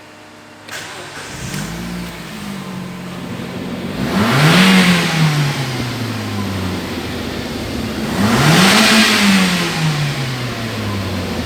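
Mazda Z6 1.6-litre four-cylinder petrol engine starting about a second in and idling, then revved twice, its pitch rising and falling back each time.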